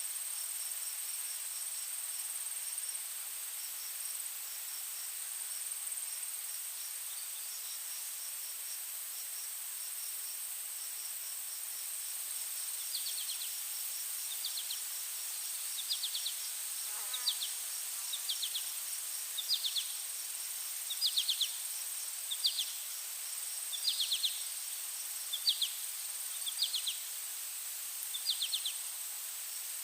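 Insect chorus: a steady high-pitched drone with a fast pulsed chirping beneath it. From about halfway, louder short chirps join in, each a quick cluster of pulses, repeating roughly every second and a half.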